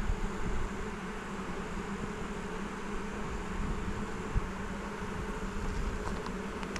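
Honeybees buzzing as a steady low hum around an opened hive during a frame inspection; the colony sounds a little excited after being disturbed. A single light click about two-thirds of the way through.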